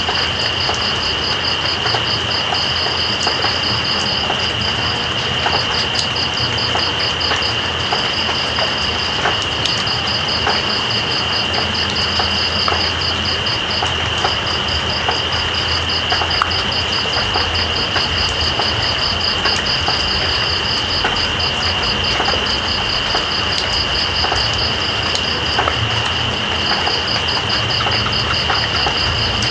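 Steady rain hissing with night insects calling over it: one holds a continuous high whine while another keeps up a fast pulsing trill that pauses briefly now and then. A low steady rumble runs underneath.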